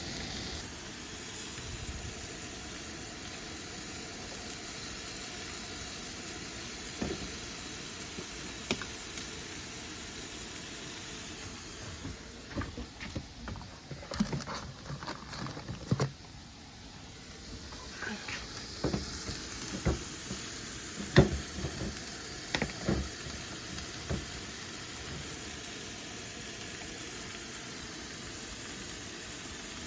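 A steady sizzling hiss, with a run of scattered knocks and clatters in the middle.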